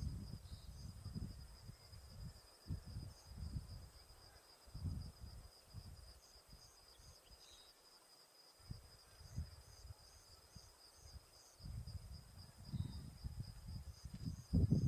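A steady, high, slightly pulsing insect trill, with a few short faint high chirps over it. Irregular low rumbles come and go, growing louder near the end.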